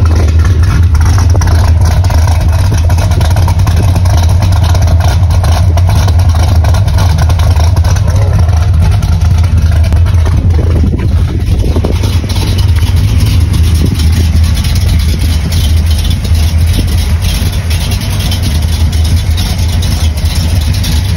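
1966 Pontiac GTO's built 400 cubic-inch Pontiac V8 with solid lifters, idling steadily and loud, with a low, even exhaust note.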